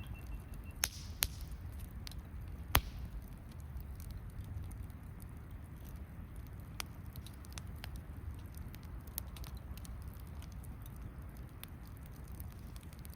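Wood campfire crackling, with scattered small pops and one sharper pop about three seconds in, over a low steady rumble.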